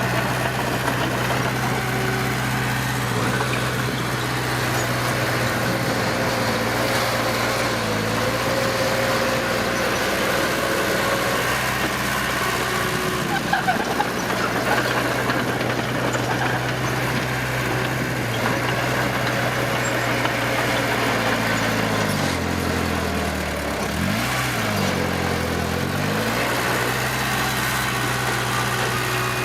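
Heavy diesel earthmoving engine running steadily, with a couple of short knocks about halfway through. Near the end its pitch drops and rises back twice, as the engine slows and picks up again.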